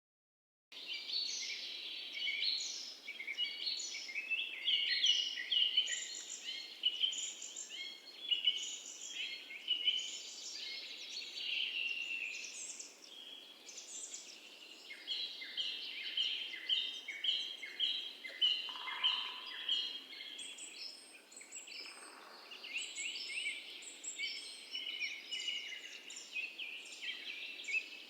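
A dense chorus of many small birds chirping and twittering rapidly over a faint steady hiss, starting abruptly just under a second in.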